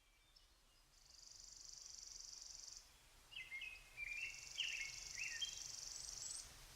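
Faint birdsong: short chirping phrases, with two high buzzing trills of about two seconds each.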